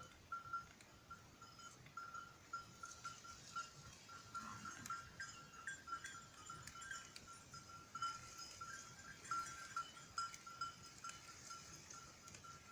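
Faint animal chirping: one short high note repeated steadily, a few times a second, with scattered light ticks.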